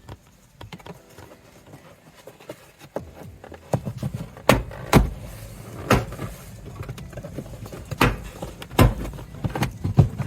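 Plastic interior trim and floor mat being handled in a car's footwell: a string of sharp clicks and knocks starting a few seconds in, over a low rumble.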